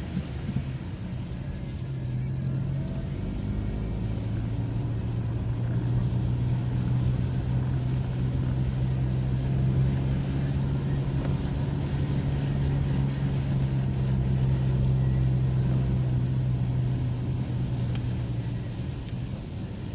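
Car engine running steadily while driving, with tyre and road noise; the engine note holds one pitch for most of the stretch and eases off near the end.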